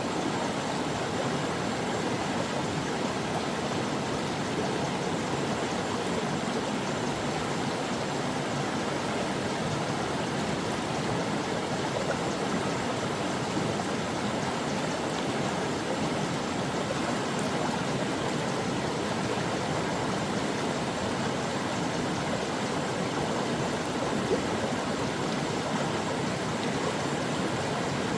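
A brook flowing steadily: a continuous, even rush of running water.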